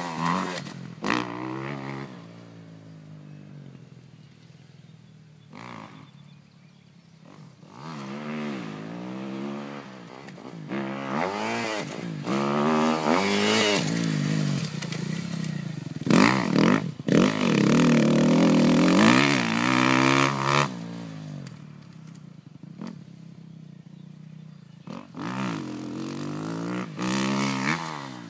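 Dirt bike engine revving up and down through the gears, with bursts of acceleration separated by quieter stretches of closed throttle; the longest and loudest full-throttle run comes just past the middle.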